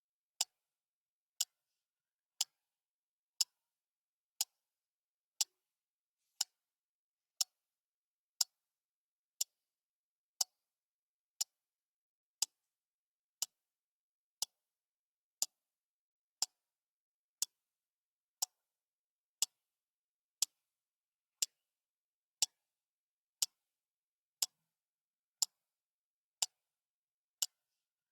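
Clock ticking steadily once a second: short, sharp, even clicks with silence between them.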